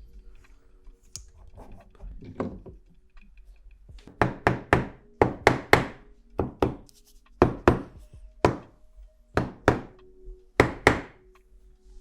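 A run of sharp knocks in quick twos and threes: the cylinder of a Honda CR250 two-stroke being tapped down over the new piston and rings to seat it.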